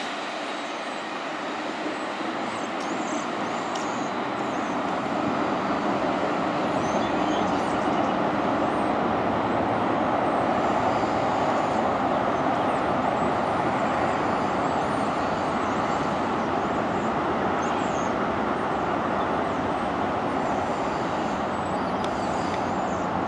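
Steady rushing vehicle noise: the rumble of a freight train rolling away into the distance, blended with road traffic. It grows a little louder about five seconds in, with a few faint high chirps or squeaks above it.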